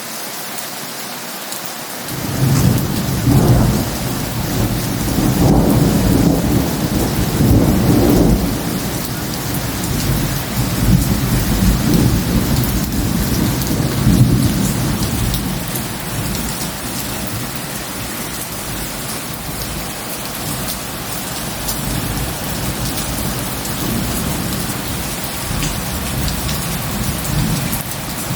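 Heavy rain falling steadily, with thunder rumbling in about two seconds in: a long low rumble that swells and fades several times, loudest in the first third and easing off later.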